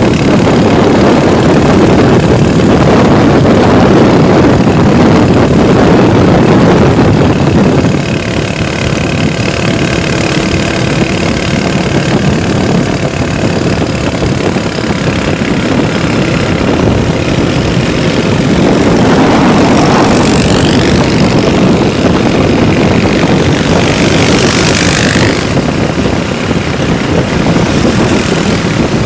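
Motorcycle engines running on the road, a steady loud noise, with a rising whine about twenty seconds in and a brief loud hiss a few seconds later.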